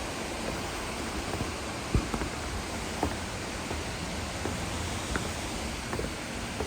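Steady rushing of falling water from the waterfall and stream, with a few soft knocks about two and three seconds in.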